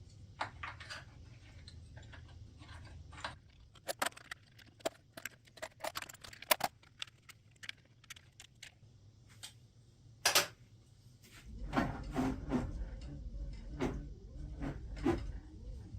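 Irregular light clicks, clinks and knocks of wood and small metal parts being handled in a workshop. From about twelve seconds in, a low rumble joins them, with more knocks.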